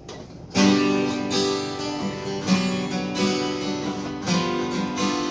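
Acoustic guitar starting a song's intro about half a second in: strummed chords, each ringing on into the next.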